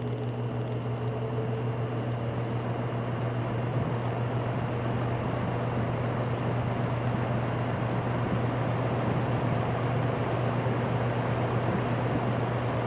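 General Electric F15W13 box fan running on low speed: a steady motor hum under a rush of air that grows gradually louder as the blades come up to speed.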